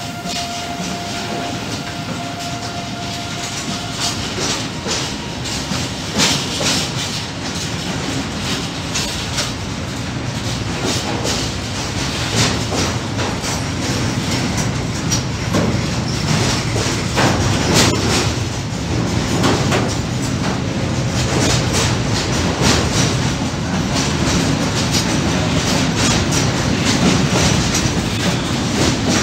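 Freight train of container flat wagons rolling past at steady speed, wheels clicking rhythmically over rail joints with a continuous rumble. A thin steady whine stops about four seconds in.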